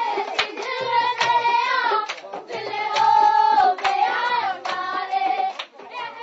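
Children singing a song with held, high notes, to steady rhythmic hand clapping.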